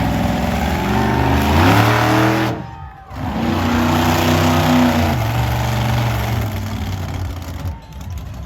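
Monster truck engine revving hard. Its pitch climbs about two seconds in, the throttle cuts off sharply around three seconds, then it runs high again and eases off near the end.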